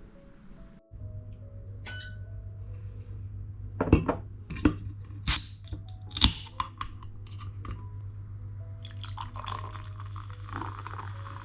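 Groceries being unpacked: a few sharp knocks and clicks as items are set down on a hard surface, then plastic packaging rustling from about nine seconds in.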